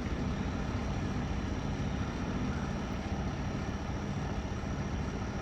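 Steady low hum of idling heavy-vehicle engines.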